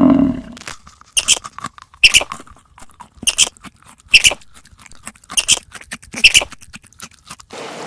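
Crunchy chewing, crackling clicks, with six short high squeaks spaced about a second apart.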